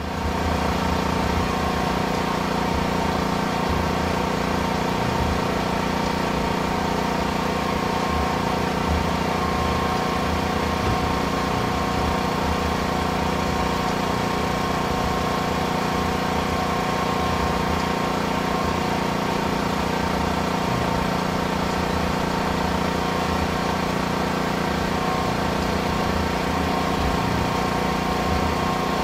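Narrow-gauge train running steadily along the track, heard from its rear platform: an even mechanical drone with a low rumble that holds unchanged throughout.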